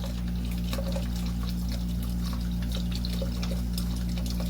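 Water pouring steadily out of an electric water heater's drain into a funnel as the tank is drained, with scattered small drips and clicks over a low steady hum.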